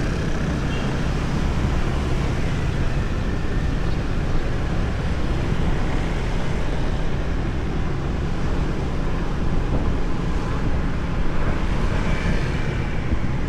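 Steady wind rush on the microphone over the low rumble of motorbike and road noise while riding on a moving motor scooter through city traffic.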